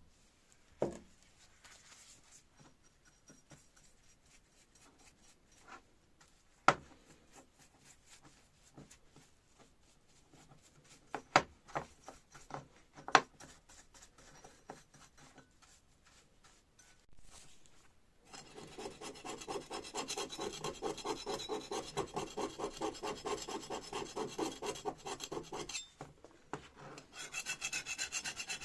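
Paint and rust being rubbed off the hydraulic jack's metal parts by hand: a few sharp knocks and clicks, then about two-thirds of the way in fast back-and-forth rubbing strokes that pause briefly and resume near the end.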